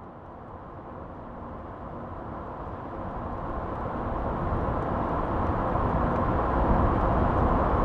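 Sound-effect recording of a car approaching: a steady rush of engine and tyre noise that grows steadily louder as the car draws nearer.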